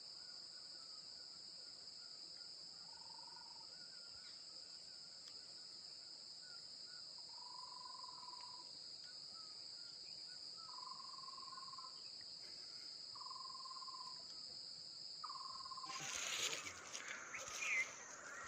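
Steady, high-pitched insect drone, with short lower notes repeating every two to three seconds. About sixteen seconds in the drone stops and is replaced by louder rustling and a few knocks.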